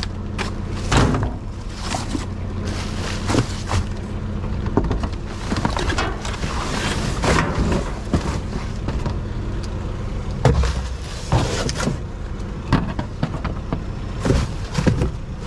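Rummaging through boxes of scrap: irregular rustling, knocks and clanks of things being handled, over a steady low engine hum.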